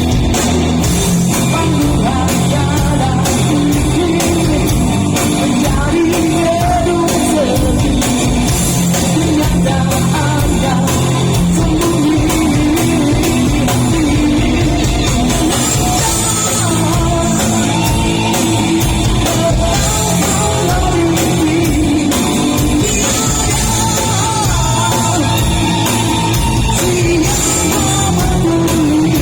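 Live rock song: a male busker singing in the style of an old-school rock singer over a band with a steady drum beat.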